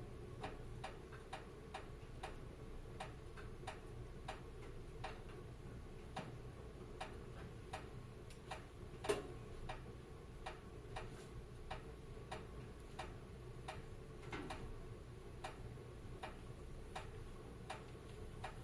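Wood fire crackling: a steady run of small sharp crackles, a few a second, over a low hiss, with one louder pop about halfway through.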